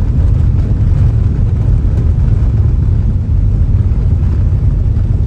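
Steady low rumble of a car driving along a road: engine and tyre noise from the moving vehicle.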